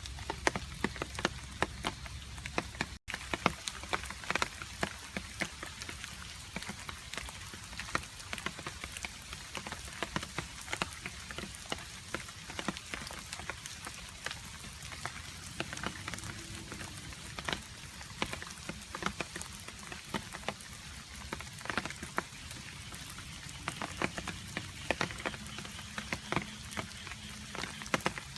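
Steady rain with many separate water drops dripping and ticking over the hiss of the rainfall. The sound cuts out for an instant about three seconds in.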